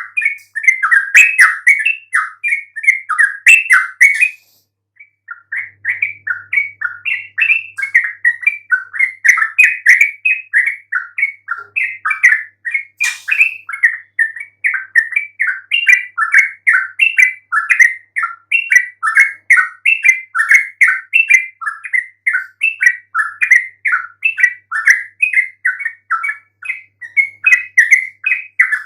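Yellow-vented bulbul (trucukan) song: a continuous run of rapid, bubbly chattering notes, broken by one brief pause about four seconds in.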